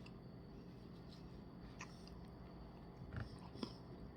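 Faint chewing of a mouthful of Blizzard ice cream with crunchy cookie pieces, with a few small clicks, the clearest about three seconds in.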